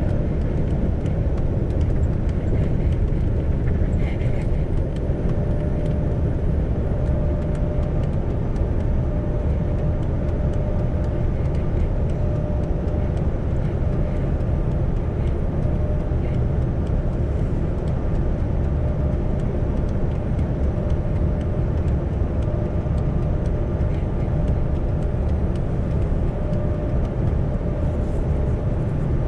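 Isuzu Giga heavy truck cruising at steady speed on an expressway: a steady engine drone and road rumble with a faint steady whine, with no change in speed.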